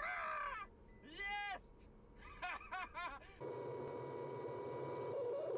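A man laughing and exclaiming in short, excited bursts, then an abrupt cut to a steady hum with a faint constant tone.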